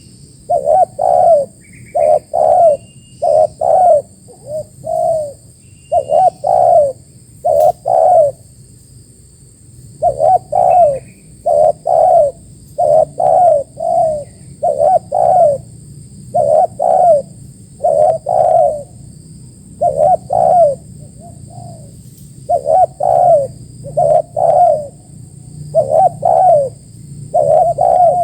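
Spotted doves (tekukur) cooing over and over in short phrases of a few notes each, with brief pauses between phrases. Faint chirps of smaller birds come through now and then.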